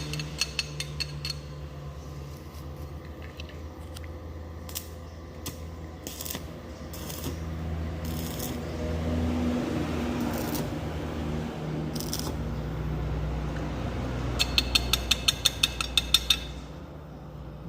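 Rapid metallic clicking in two runs of about eight sharp strikes a second, one at the start and one a little before the end, with scattered single clicks between them. A low steady hum sits underneath.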